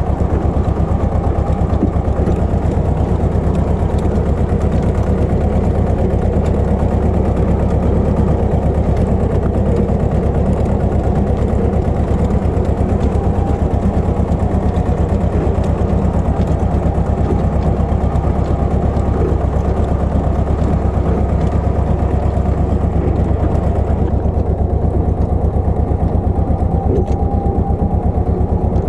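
Pascuali 980 EX tractor engine running steadily at a constant pace with a fast, even firing beat, while the tractor works a rotovator.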